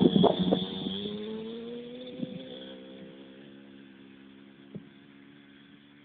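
Engine of a child's small motorbike running steadily, its pitch rising slightly early on, then fading away as the bike moves off.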